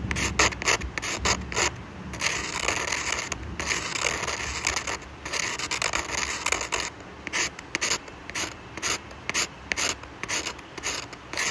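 A pen or pencil scratching across paper in repeated drawing strokes: several longer strokes, then many short quick ones from about seven seconds in.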